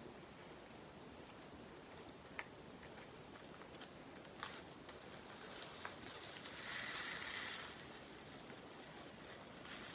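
Small resin diamond-painting drills poured from a bag into a container. A rattling patter comes about five seconds in and trails off into a softer hiss, with a few light clicks before it.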